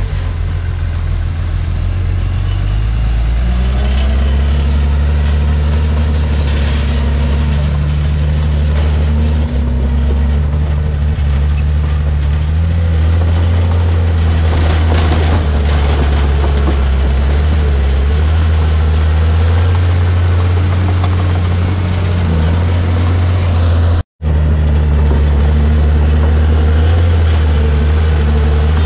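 Komatsu D51PX bulldozer's diesel engine running steadily under working load, its pitch shifting now and then as the throttle and load change. The sound cuts out for a moment near the end.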